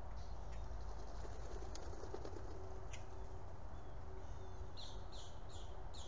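Outdoor ambience under a steady low rumble, with a few faint high clicks. Near the end a songbird gives a quick series of four short, high chirps.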